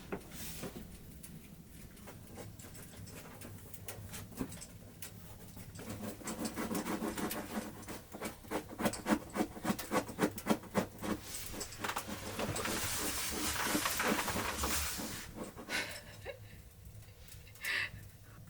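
A dog panting in a quick, even rhythm through the middle of the stretch, followed by a few seconds of rustling hiss.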